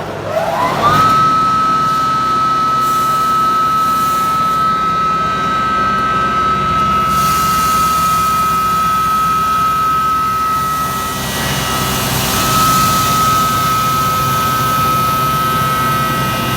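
Stainless steel grinding machine starting up: its motor winds up in a rising whine over about a second, then runs at a steady high-pitched whine. A rushing noise grows louder about halfway through, and the whine briefly dips about two-thirds of the way in.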